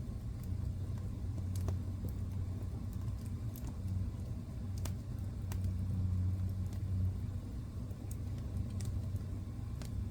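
Wood fire burning in a fireplace: a steady low rumble of flames with irregular sharp crackles and pops, a few every couple of seconds.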